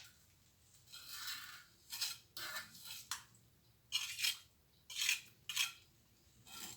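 Steel plastering trowel scraping and spreading cement mortar in a run of short, irregular scrapes.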